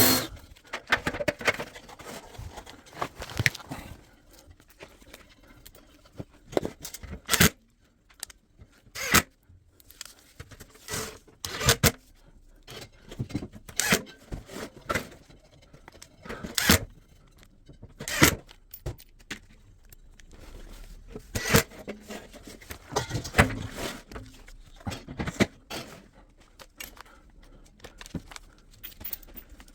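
Irregular clicks, clinks and scrapes of washing-machine parts and screws being handled during disassembly, sped up by fast-forward playback.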